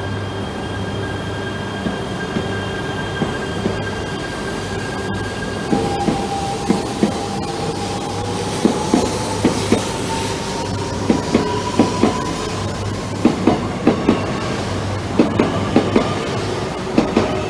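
A shinkansen train moving out along the platform and gathering speed. Under a steady rumble, a motor whine begins about six seconds in and slowly rises in pitch. Through the second half the wheels clack over rail joints in repeated clusters.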